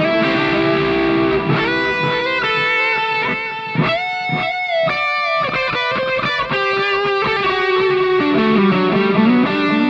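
Electric guitar played through a Mooer Red Truck multi-effects pedal on one of its stored presets: a single-note lead line of held notes with string bends in the middle, on an effected, somewhat driven tone.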